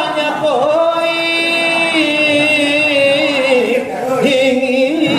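Selawat dulang chanting: a voice holds long, drawn-out melismatic notes that waver in pitch, with a short break and a new phrase near the end.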